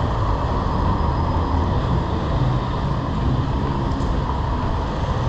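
Steady rushing wind and road noise while cycling in city traffic, with a low rumble underneath.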